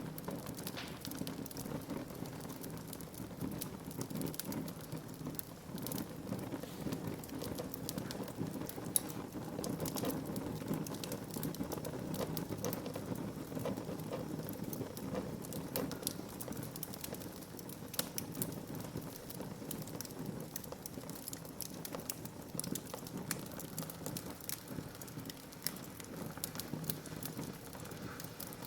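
Wood fire burning in a fireplace: a steady low rush of flame with irregular crackles and small pops throughout, and one sharper pop about nine seconds in.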